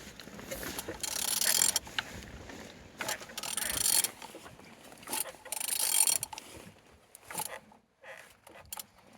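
Used car engine being turned over by hand at the crankshaft, with ratcheting mechanical sound in three strokes a couple of seconds apart and a few lighter clicks near the end. It turns over freely, so it is not seized.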